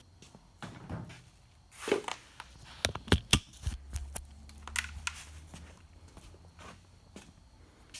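Metal tools clinking and knocking on the engine-to-transmission adapter as its bolts are drawn up, a quick cluster of sharp knocks about three seconds in, followed by a brief low hum.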